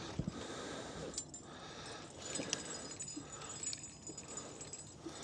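Faint scattered clicks and light metallic jingling, the sound of fishing gear being handled.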